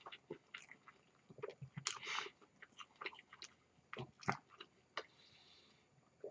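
A person chewing a mouthful of sub sandwich: faint, scattered clicks and smacks of the mouth.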